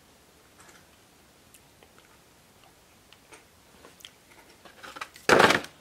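Quiet chewing with faint, scattered mouth clicks, then about five seconds in a short, loud noise lasting under half a second.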